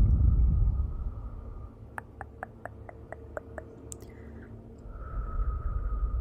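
Wood fire in a fireplace: a low rumbling roar that drops away about a second in, leaving a quieter stretch with a quick run of about eight evenly spaced crackling ticks and one sharper pop, before the roar comes back near the end.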